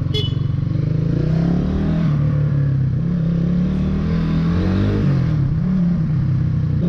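Hanway 250cc single-cylinder four-stroke motorcycle engine pulling under way, its pitch climbing and then dropping at each of two upshifts. A short high beep sounds just after the start.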